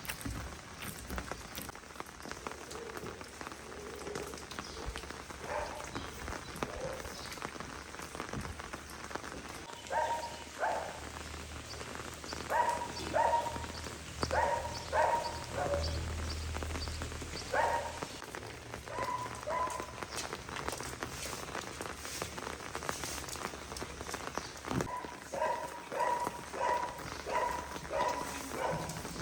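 Steady rain falling. Over it come a few runs of short, repeated animal calls, at about two a second, around the middle and again near the end.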